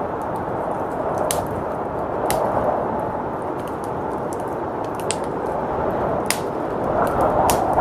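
Wood fire crackling, with sharp pops roughly once a second, over the steady rush of blizzard wind. The wind swells near the end.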